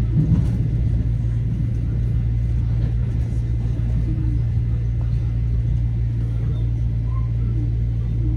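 Metro-North M7A electric commuter train heard from inside a moving car: a steady low rumble of wheels on rail, with a constant hum from the running gear.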